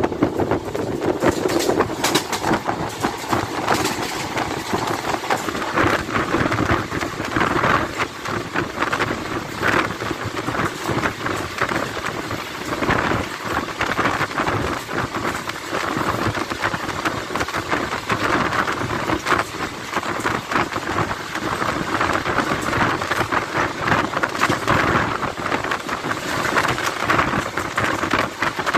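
Wind rushing loudly past an open door of a train running at speed, with its wheels rumbling and clattering steadily on the rails.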